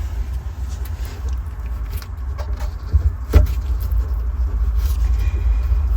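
Steady low rumble with a few scattered light knocks and clicks, the sharpest about three and a half seconds in.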